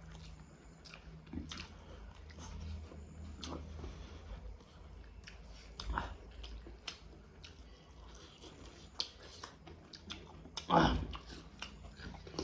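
Close-up chewing and biting while eating rice and egg curry, with many small wet mouth clicks and smacks. There is a louder burst about eleven seconds in.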